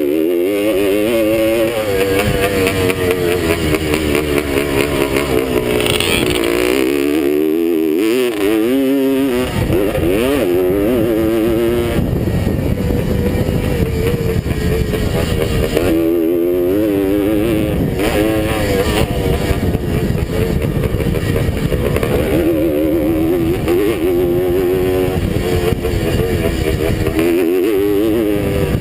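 Vintage two-stroke motocross motorcycle engine at racing speed, its pitch repeatedly rising and falling as the rider revs, shifts and backs off, with a dip in revs about 8 seconds in and again about halfway. Heavy wind rumble on the bike-mounted microphone lies under it.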